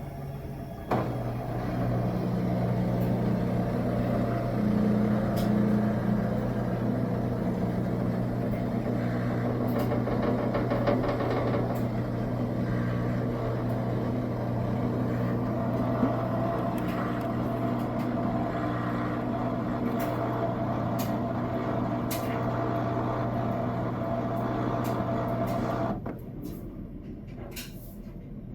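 Washing machine in its final high-speed spin: a loud, steady motor hum with a fixed pitch that comes up about a second in and cuts off abruptly a couple of seconds before the end as the drum stops driving. The spin is very loud even though the load is perfectly balanced.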